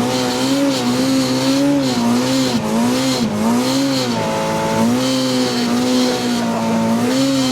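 Polaris RZR Pro R's turbocharged four-cylinder engine held at high revs, its pitch wavering up and down with short dips as the side-by-side plows through deep snow.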